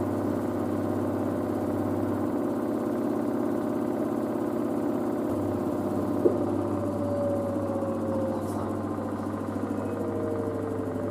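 LG DirectDrive washer dryer's direct-drive motor and drum running steadily through a spin, with a click about six seconds in, then a falling motor whine as the drum slows.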